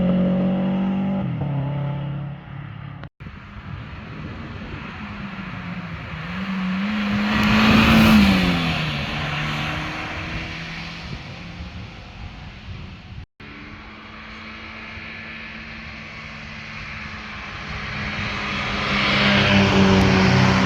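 Three separate car flybys on a winding road, cut together. At the start one car's engine fades away. About 8 s in a second car comes past, its engine note bending up and then dropping as it goes by. Near the end a third car approaches under power and passes loudly.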